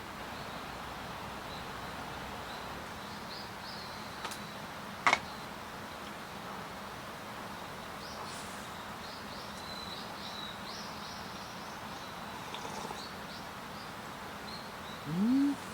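Outdoor forest ambience with a steady background hiss and small birds chirping repeatedly in short high notes. There is one sharp click about five seconds in, and a short low sound rising in pitch near the end.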